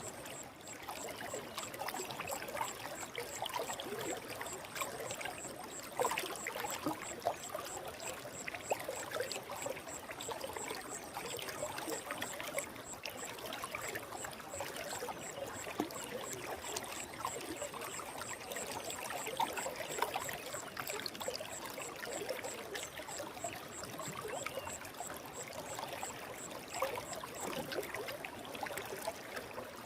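Forest stream flowing steadily, a constant babbling and trickling of water.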